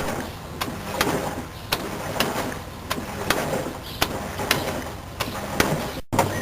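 Washing machine running, with sharp knocks or clicks repeating about three times a second over a noisy mechanical background. Just after six seconds the sound cuts out briefly and gives way to a steady hum.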